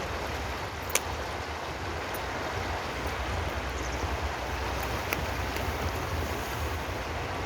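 Steady rushing water, an even unbroken hiss with a low rumble underneath, and a sharp click about a second in and another about five seconds in.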